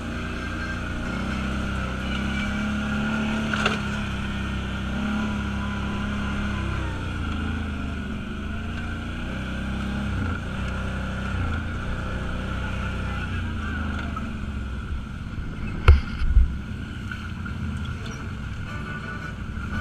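An off-road vehicle's engine runs steadily while driving, its pitch shifting a little with the throttle. There is a light click about four seconds in and two loud knocks, a fraction of a second apart, about sixteen seconds in.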